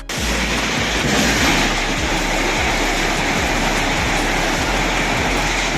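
Strong wind blowing in bad weather: a steady, loud rushing noise that starts abruptly and holds without a break.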